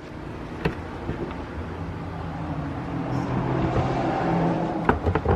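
A motor vehicle's engine running, a steady low hum that grows louder over a few seconds. A sharp click comes near the start and three more near the end.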